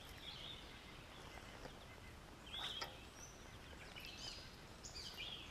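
Faint outdoor ambience with a few short, scattered bird chirps, the clearest about two and a half seconds in.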